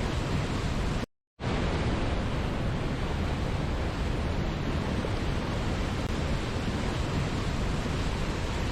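Steady rushing of a waterfall, an even wash of water noise that cuts out completely for a moment about a second in, then carries on.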